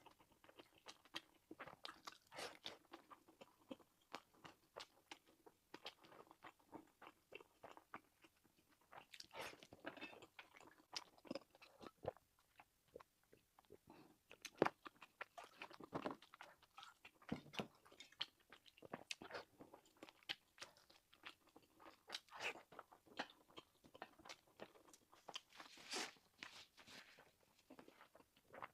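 Quiet, close-miked chewing and biting of food, a steady irregular run of small crunchy clicks.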